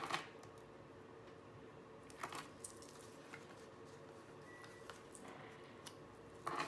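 Soft paper rustles and a few small clicks from handling a sticker sheet and planner pages, over a faint steady room hum.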